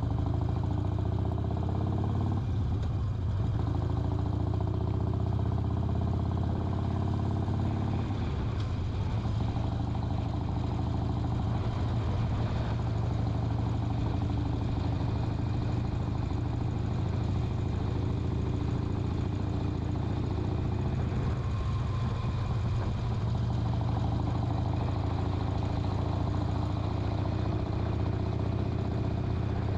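Harley-Davidson Sportster XL 1200 Custom's air-cooled 1200 cc V-twin running steadily on the move, its pitch rising and falling slightly a few times as the throttle changes.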